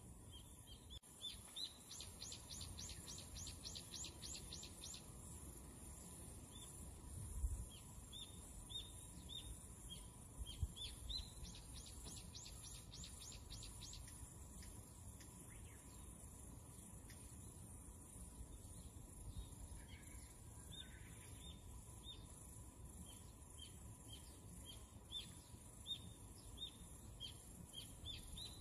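Small birds chirping faintly: runs of quick chirps that each fall in pitch, several a second, in two longer bursts early and in the middle, with scattered single chirps between. A couple of dull knocks of a kitchen knife on a plastic cutting board as a spiny lobster tail is cut.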